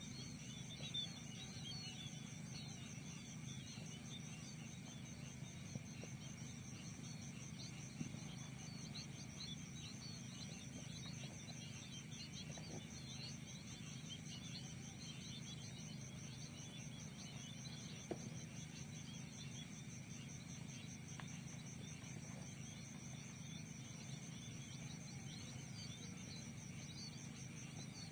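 Steady high insect trill with rapid even pulsing, mixed with many short faint chirps, over a low steady hum.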